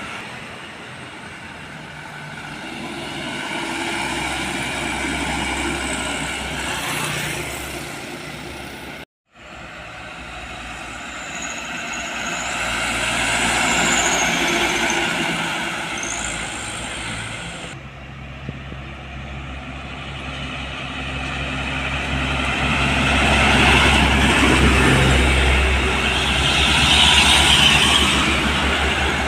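Heavy diesel trucks driving past on a road, the engine sound swelling and fading as each one goes by. The sound breaks off abruptly about nine seconds in and changes suddenly again about eighteen seconds in.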